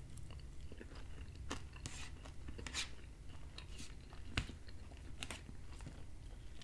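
Close-miked chewing of a mouthful of baked salmon and onions, with scattered faint clicks of a fork against the plate.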